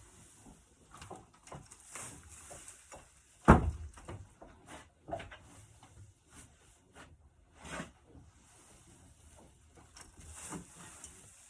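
Scattered clunks and knocks, with one loud thump about three and a half seconds in.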